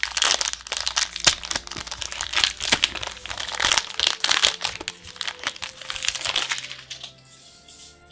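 Booster pack wrapper being torn open and crumpled: a dense crinkling with many sharp crackles, dying away about seven seconds in.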